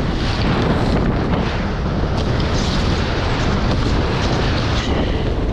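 Heavy wind buffeting the microphone in a steady low rumble, over the rush of water along the hulls of a Nacra 20 beach catamaran sailing fast through waves.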